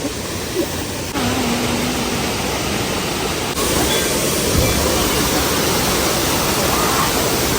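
Waterfall's falling water: a steady rushing noise that grows louder in two steps, about a second in and again about three and a half seconds in.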